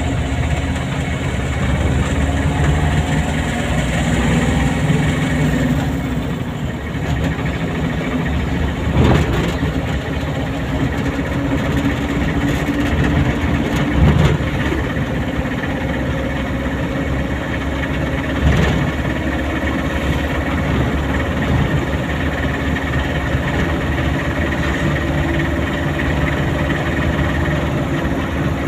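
Car engine running steadily under road noise while the car is driven, with three brief thumps spread through it.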